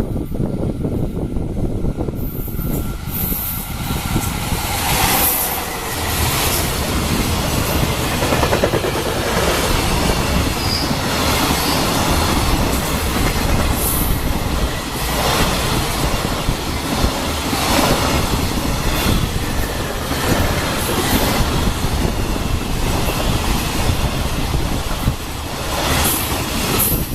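A long container freight train hauled by a JR EF66 electric locomotive passing close by at high speed: a continuous rushing rumble of wagons, with the wheels clattering over rail joints in repeated strokes.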